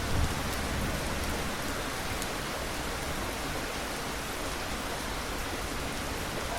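Steady rain falling, an even hiss with a few faint drop ticks. A low thunder rumble fades out in the first moment.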